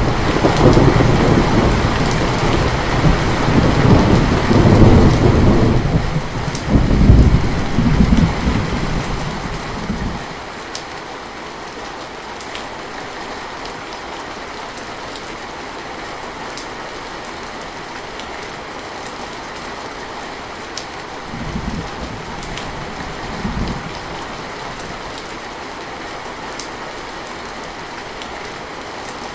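Steady rain with a long, loud roll of thunder through the first ten seconds or so. After that the rain goes on alone, and two short, fainter rumbles of thunder come a little past the middle.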